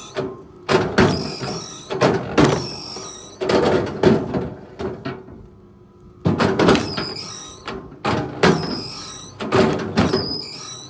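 A series of sudden heavy knocks, roughly one a second with a short pause midway, each ringing out and fading with a high squeal.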